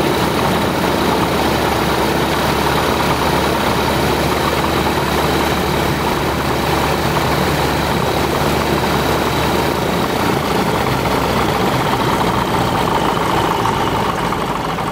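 Van's RV-12's Rotax 912 ULS four-cylinder engine running steadily at idle on its first run, with the propeller turning. The level drops away near the end.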